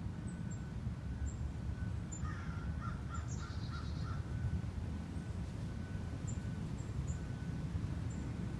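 Wild birds calling over a steady low outdoor rumble. About two seconds in, one bird gives a quick run of about six harsh repeated notes. Thin high chip notes come and go throughout.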